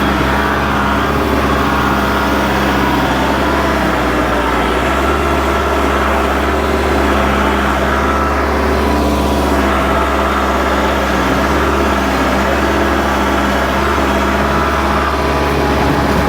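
Kubota L47 backhoe tractor's diesel engine running steadily.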